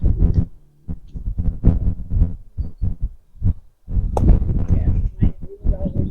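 Irregular low thumps and rumbling on a handheld camera's microphone, coming every half second or so with two short lulls.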